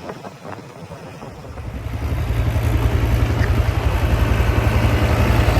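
Mahindra 475 tractor's diesel engine running, growing much louder about a second and a half in and then holding a steady low drone.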